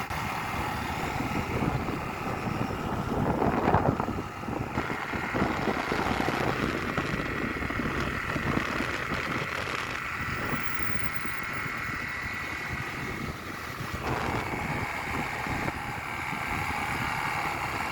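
Motor vehicle running with road noise, steady throughout, with a thin whine from about four seconds in until near the end.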